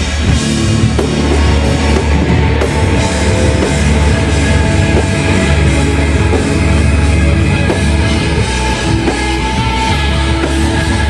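Loud live shoegaze band playing, with dense distorted guitars over a heavy, steady drum kit and bass.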